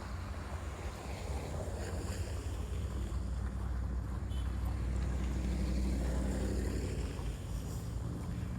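A motor vehicle passing on the street, its engine rumble swelling to a peak about six seconds in and then easing, over a steady low rumble of wind on the microphone.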